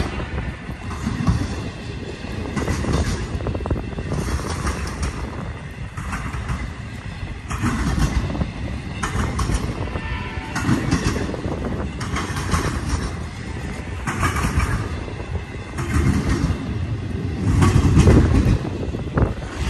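Double-stack intermodal freight train rolling past, a steady low rumble with repeated wheel clicks as the cars pass over the rails. The last car goes by near the end.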